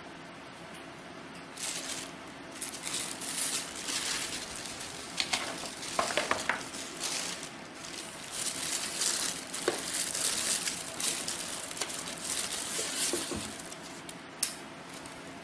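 Shoe packaging being handled, rustling and crinkling in irregular bursts, with a sharp click near the end.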